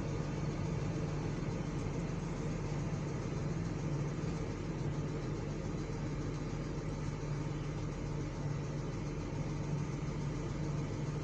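Ford F-150 six-cylinder engine idling steadily, running evenly, with no cylinder misfiring on the scan tool's live misfire check.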